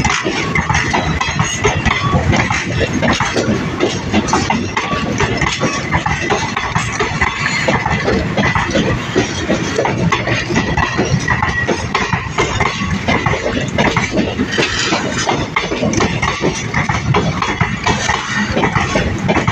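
Indian Railways passenger coaches rolling past at speed, wheels clattering over the rail joints in a steady, continuous run of clicks and knocks.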